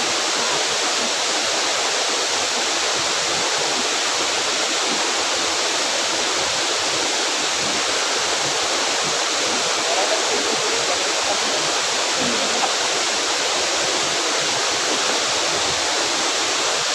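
Waterfall water falling and rushing in a steady, unbroken roar of white noise.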